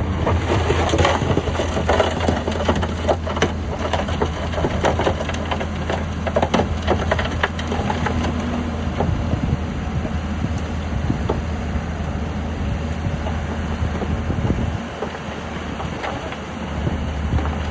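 Heavy earthmoving machine's diesel engine running steadily under dense crunching and cracking of rock and earth fill. The crackling is thickest in the first half and thins out later, and the engine eases off briefly near the end.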